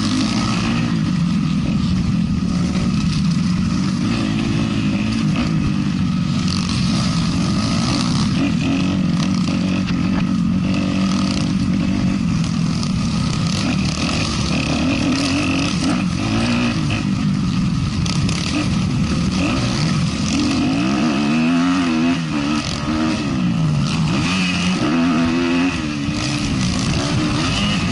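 Motocross motorcycle engine racing on a dirt track, the revs rising and falling steadily as the rider throttles on and off, with quicker, sharper swings in pitch near the end.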